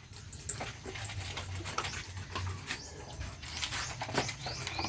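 Young dogs playing and scuffling, with scattered light clicks and scrapes from their movement.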